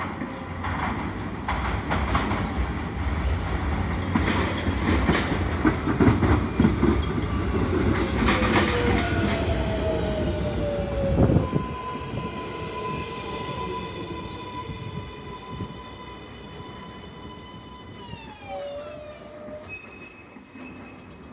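New York City Subway L train pulling into the station: wheels rumbling and clacking over the rail joints, with a falling electric motor whine as it brakes. It stops about 11 seconds in, leaving a quieter steady electrical whine from the train at rest, with a few falling tones near the end.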